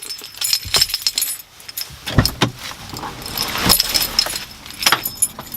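Metal jingling and clinking: a run of small sharp metallic clinks with a bright ring, scattered irregularly, with a few louder knocks.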